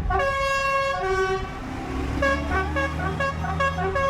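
A truck's musical horn playing a tune of held notes that step up and down in pitch, with an engine rumbling underneath from about two seconds in.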